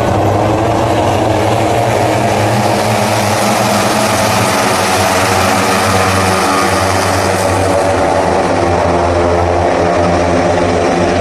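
Several racing motorcycle engines running at high revs together, a dense, continuous, overlapping engine buzz whose pitches slide up and down as the bikes accelerate and pass.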